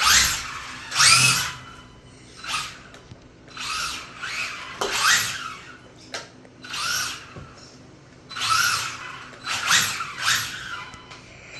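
An RC drag car's brushless electric motor revved in short throttle blips: about nine quick whines that each rise in pitch and die away.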